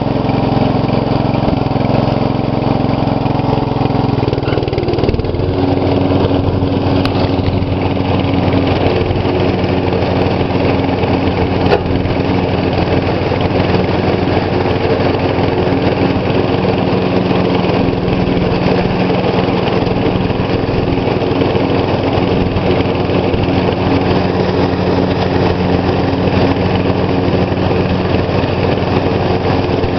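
Engine of a 2012 MTD lawn tractor running steadily under load while it mows grass. Its note changes about five seconds in, then holds even.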